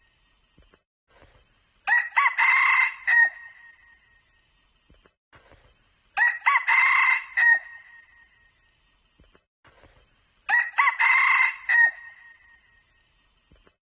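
Red junglefowl cock crowing three times, each crow about a second and a half long, evenly spaced about four seconds apart, loud and clear with near silence between.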